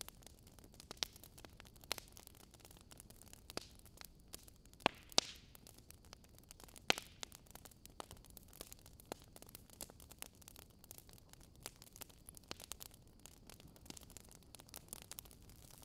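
Wood fire crackling in a fireplace: irregular pops and snaps over a soft hiss, now and then a louder pop.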